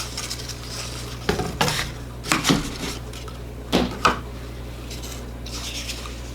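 A metal utensil clinking and scraping against a dish: a few short clatters in the middle, then softer scraping near the end.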